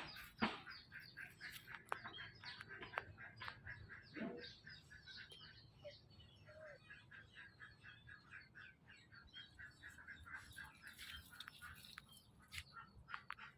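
Rapid high-pitched chirping calls from a small animal or bird, several a second and continuing throughout, with a few sharp knocks in the first second and again near the end.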